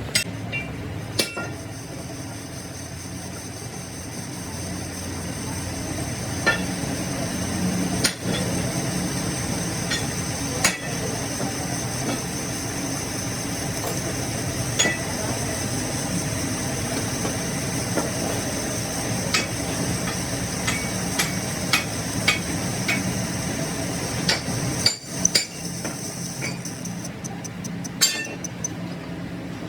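A machine running with a steady hum, with scattered sharp metal knocks and clinks, a cluster of them about two-thirds of the way through.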